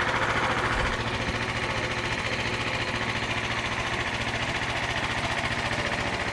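Small gas engine of a Frontier OS31 portable sawmill running steadily between cuts, with an even, fast pulse. It eases slightly about a second in.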